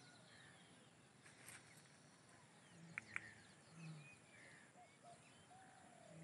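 Near silence: faint outdoor ambience with scattered faint bird chirps, and two short sharp clicks about three seconds in.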